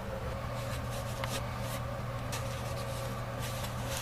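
Faint rubbing and scraping handling noises from hands and tools working under a bathroom sink, over a steady low hum.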